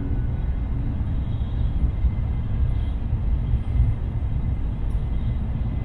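Shinkansen train running at speed, heard from inside the passenger cabin: a steady deep rumble with an even hiss of rolling and air noise.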